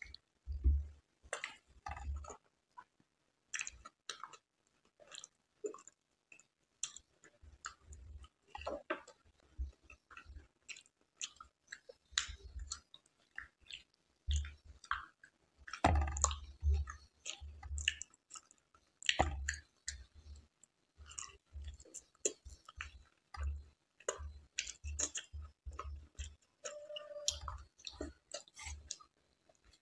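Close-miked chewing and wet lip smacks of someone eating soft, syrup-soaked rasgulla, with irregular mouth clicks throughout.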